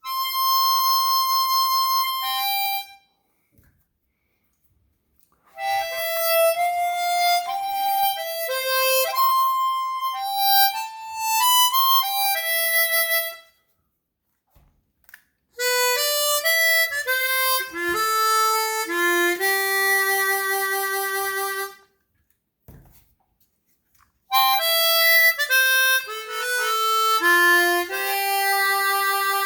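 Chromatic harmonica played in four short melodic phrases with gaps of a couple of seconds between them, the first a single held note. It is an A/B tone test going back and forth between a stock Suzuki SCX and a Suzuki chromatic fitted with Kettlewell Resonant Covers, whose arched, trumpet-bell-shaped chamber is meant to focus the tone.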